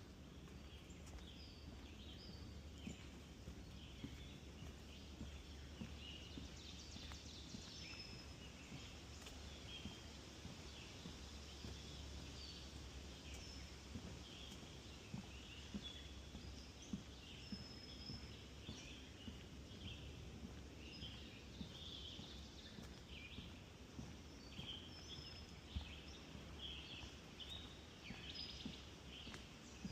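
Several songbirds singing and calling in spring woodland, with many short chirps and whistles overlapping all through, over a faint steady low rumble.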